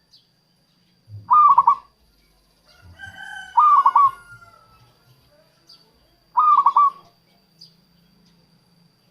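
Zebra dove (perkutut) cooing: three calls, each a quick cluster of a few staccato notes, spaced two to three seconds apart. Just before the second call comes a longer falling whistle, and a thin steady high tone runs underneath.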